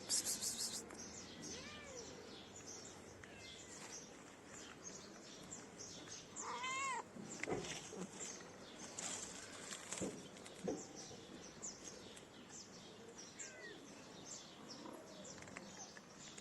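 A kitten meowing a few times: faint, short meows, with one clear, louder meow about seven seconds in that rises and falls in pitch. Faint scratchy rustling and clicks run between the meows.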